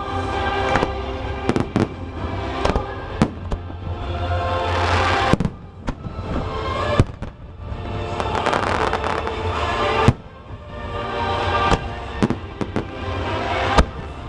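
Fireworks bursting: a string of sharp bangs at irregular intervals, a couple of them much louder, with crackling swells between. Music plays underneath.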